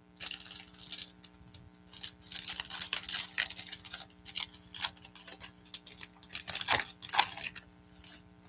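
Trading cards being handled: a run of dry, papery rustles and scrapes as the cards from a freshly opened pack slide against each other and are flipped through.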